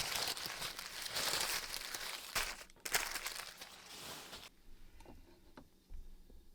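Crinkling, rustling handling noise that stops suddenly about four and a half seconds in, followed by a few faint clicks.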